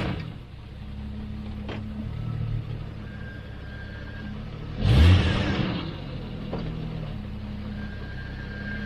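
Stuck Jeep's engine running, then revved hard once about five seconds in before dropping back, as it tries to pull out of a mud hole on a winch line to a three-spike ground anchor.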